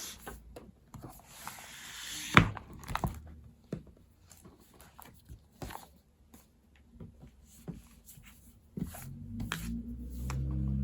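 Scattered clicks and taps of pens and paper being handled at a desk, with a hissy rustle building to one sharp click about two and a half seconds in. Near the end a low, rough pitched sound comes in and grows.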